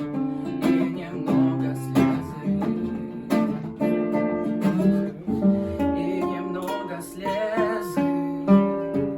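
Acoustic guitar strumming and picking chords in a steady rhythm: an instrumental passage of a song.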